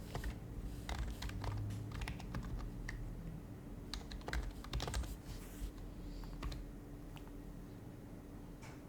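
Typing on an HHKB Professional HYBRID Type-S keyboard, its silenced Topre switches giving soft, muted keystrokes. A quick run of keystrokes fills the first five seconds or so, then a few scattered keys follow.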